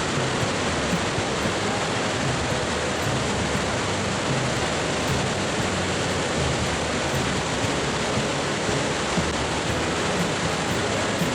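Gullfoss waterfall's water crashing into its canyon, a steady, even rush of noise with no change throughout.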